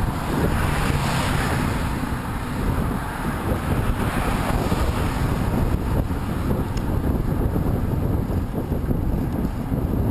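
Steady, loud wind noise buffeting the microphone, heaviest in the low rumble, as when moving into a headwind.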